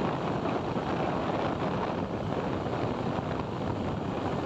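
Steady wind rush on the microphone of a moving motorcycle, mixed with road and engine noise.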